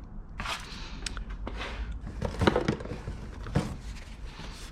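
Scattered clicks, knocks and rustles of objects being handled and set down, with the loudest knocks about two and a half seconds in and another shortly after three and a half seconds.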